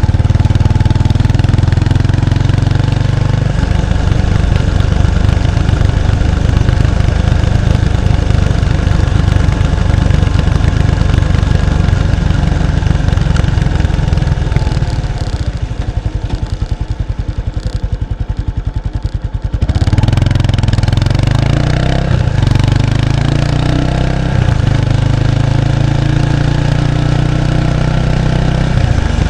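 Exhaust note of a 1993 Kawasaki Estrella's 250cc single-cylinder engine through its stock muffler, heard close up at the rear of the bike while riding. The exhaust goes quieter for a few seconds past the middle, then picks up again sharply and runs on steadily.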